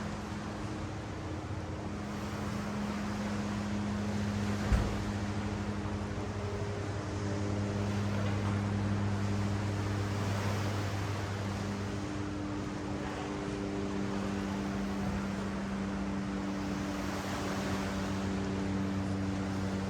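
Ocean waves washing up the beach, swelling and fading slowly, over a steady low motor hum. A single sharp knock sounds about five seconds in.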